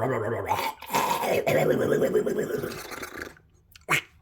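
A person's voice making wordless character noises that waver in pitch and fade out about three seconds in, followed by one short sharp click near the end.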